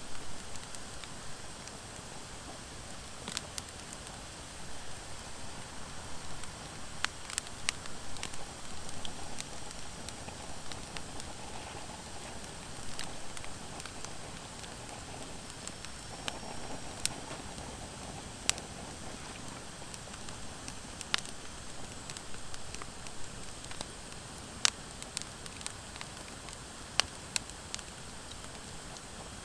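Wood fire of driftwood and dry hardwood logs burning steadily with a soft hiss, crackling with sharp pops every second or two, a few of them much louder.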